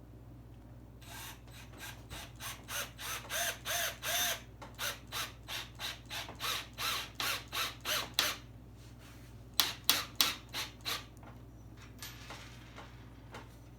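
A screw being driven into the wooden tube rack by hand, in short rhythmic ratcheting turns, about three a second for several seconds, then a brief pause and a few more turns.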